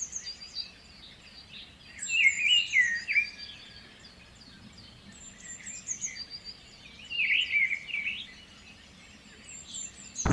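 Several songbirds singing and chirping: louder warbling phrases about two seconds in and again about seven seconds in, with thin high chirps repeating in between.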